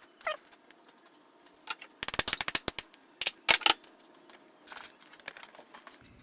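Clicks and light knocks of hard objects being handled, with two rapid, clattery flurries about two and three and a half seconds in.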